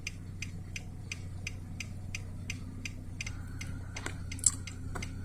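Steady, even ticking, about three ticks a second, over a low steady hum; a faint thin tone joins about three seconds in.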